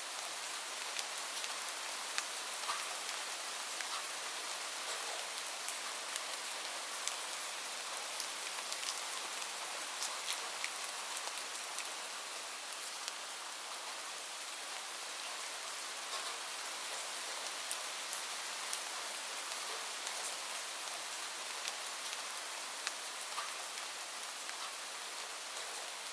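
Steady rain falling, an even hiss scattered with the ticks of individual drops hitting a surface.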